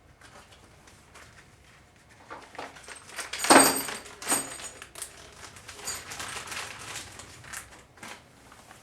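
Loose transmission valve body bolts and parts being handled on the bench, clinking and knocking irregularly, loudest about three and a half seconds in.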